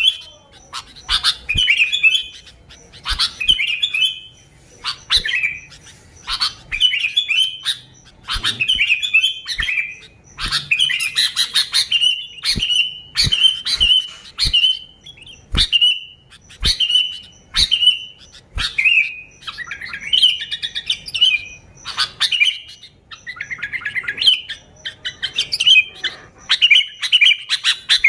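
Sooty-headed bulbul singing steadily: short bubbly, chattering phrases repeated about once a second.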